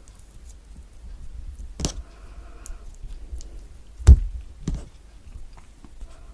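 Peel being pulled from pieces of a thick-skinned orange by hand, with a few crisp clicks and knocks and one heavy thump about four seconds in.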